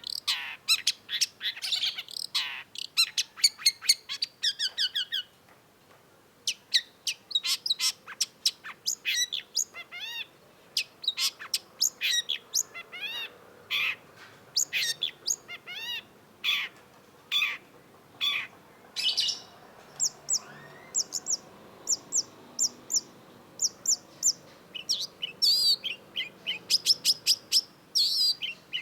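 Long-tailed shrike singing: a fast, varied string of sharp chirps and scratchy slurred notes, broken by a short pause about six seconds in, with a run of evenly spaced short high notes a little past the middle.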